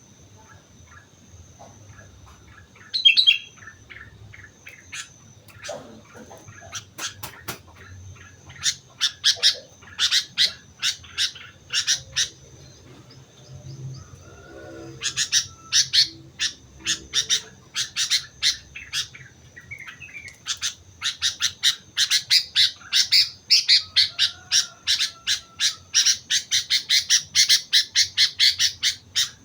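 Sooty-headed bulbul (kutilang) calling in fast runs of short, sharp chirping notes, several bursts, with the longest and densest run in the last third.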